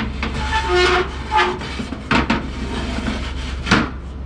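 A 15-inch pizza stone scraping and knocking against the metal of a charcoal pizza oven as it is slid into place: four or five scrapes, with a brief ringing in the first second and a half.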